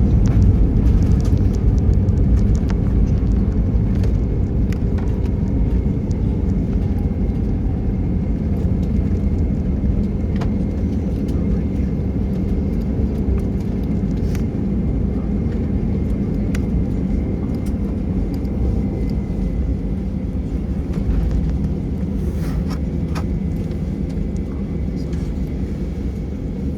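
Airbus A320 cabin noise heard by a window seat over the wing: a steady low rumble of the engines and the airframe on the ground, slowly quietening as the plane slows after landing. A faint falling whine comes a few seconds in.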